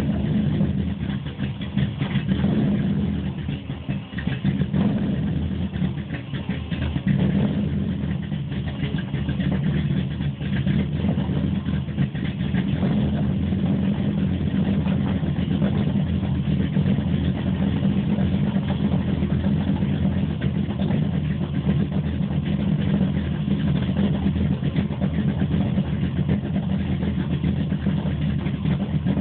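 GM ZZ502 big-block Chevy V8 with Powerjection III throttle-body fuel injection running just after a cold start. It is uneven with dips for the first several seconds, then settles into a steady idle.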